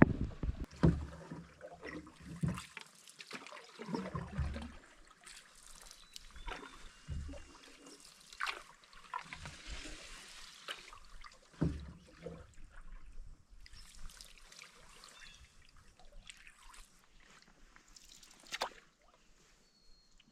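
Canoe paddling: water splashing and dripping off the paddle blade at uneven intervals, with a few sharp knocks of the paddle against the canoe.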